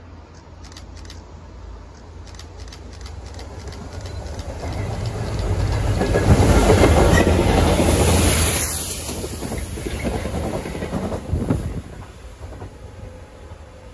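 Class 66 diesel freight locomotive hauling a train of tank wagons past at close range, its engine and wheels on the rails swelling to loudest about six to eight seconds in, then fading. Clicks of wheels over rail joints can be heard as it approaches.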